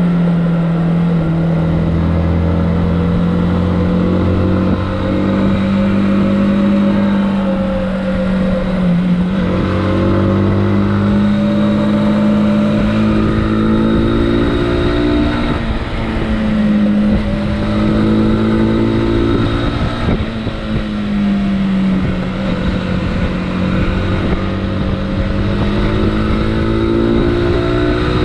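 Motorcycle engine running on the move, its pitch rising and falling several times as the bike speeds up, shifts gear and slows.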